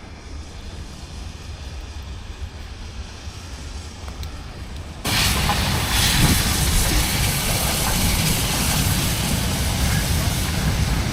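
Low steady rumble, then, about five seconds in, a steam-hauled train at the platform comes in abruptly with a loud, even hiss of steam over the rumble of the train.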